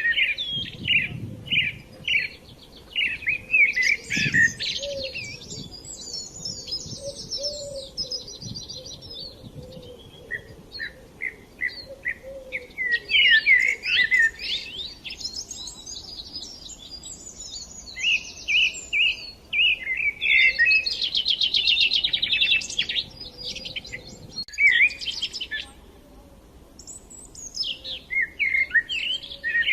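Small songbirds chirping in bursts of quick repeated notes and rapid trills, several calls overlapping at different pitches, with lulls of a few seconds between bursts.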